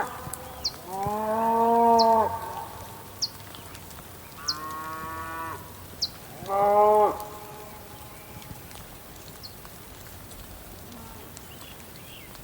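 Cow mooing three times: a long, loud moo about a second in, then two shorter ones around the middle. Short high chirps sound now and then between the calls.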